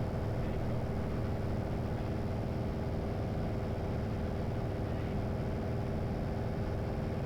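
Light single-engine airplane's piston engine and propeller droning steadily at cruise, heard from inside the cockpit. The pitch holds constant throughout.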